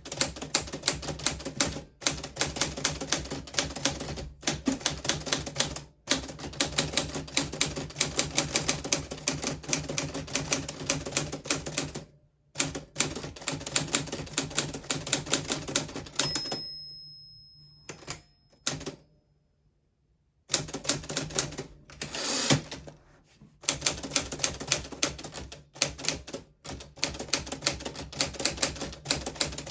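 1940s Smith Corona Silent manual typewriter being typed on: rapid keystrokes in quick runs with brief gaps. Past the middle the typing stops for a few seconds, and a longer, louder sweep about 22 seconds in comes just before the keystrokes pick up again.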